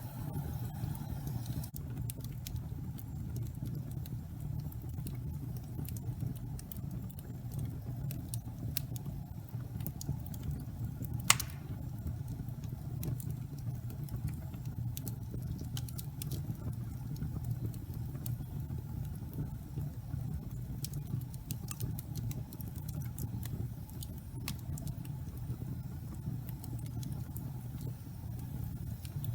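Wood fire burning in a fireplace: a steady low rumble of flame with scattered small crackles, and one loud pop about eleven seconds in.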